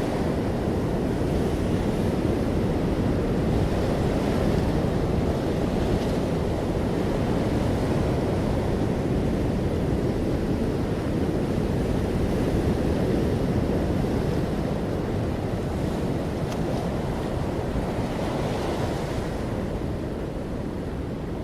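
Ocean waves breaking on the shore, a continuous deep wash of surf that swells and eases slowly, with a soft hiss as waves break.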